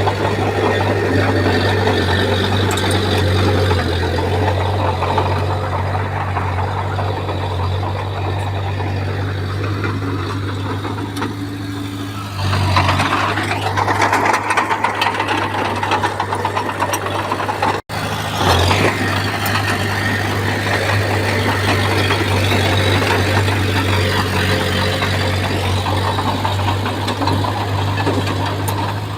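Heavy diesel earthmoving machinery running steadily with a deep engine hum. It turns louder and rougher a little under halfway through and drops out for an instant about two-thirds of the way in.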